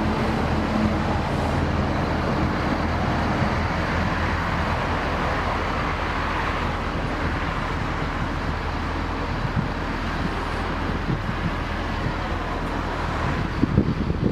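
Turbocharged Holden 186 straight-six engine running steadily at idle, with a few low knocks near the end.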